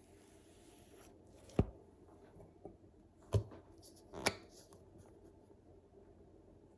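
A few sharp knocks and clatters of kitchen utensils and dishes being handled during food preparation: three distinct knocks, with a lighter tap between the first two.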